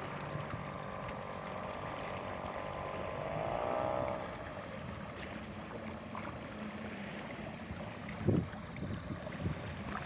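Old-model Johnson small two-stroke outboard motor running on a canoe, its whine climbing and growing louder about three to four seconds in, then fading into a low wash of wind and water. A short thump comes near the end.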